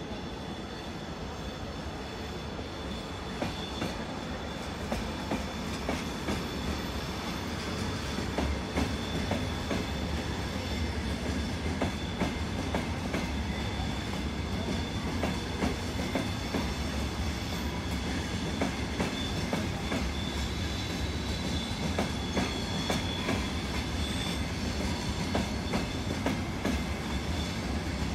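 A train rolling slowly along the station tracks, its wheels clicking irregularly over the rail joints, with a steady low rumble and a thin, steady high squeal. The clicks start about three seconds in and continue.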